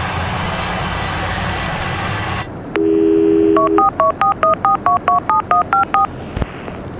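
A combine harvester's engine running steadily, cut off abruptly about two seconds in. A telephone dial tone follows for about a second, then about a dozen quick touch-tone dialing beeps.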